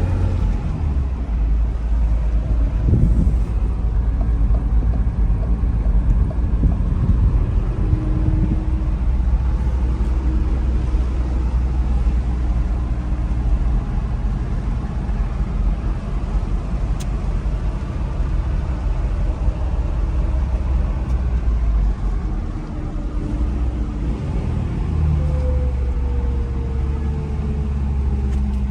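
1987 Toyota pickup being driven: its engine runs with a steady low rumble, the pitch climbing and dropping as it accelerates and changes gear near the start and again near the end.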